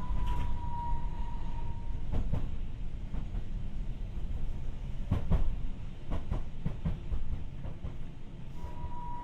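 Tokyu Setagaya Line 300 series tram running, heard from inside the car: a steady rumble of wheels on rail with several sharp clicks over rail joints. A thin high whine fades out about two seconds in and returns near the end.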